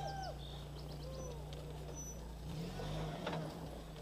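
Engine of a Suzuki Sidekick rock crawler running with a low, steady hum that rises a little in pitch about two and a half seconds in. Faint voices and a single knock about three seconds in.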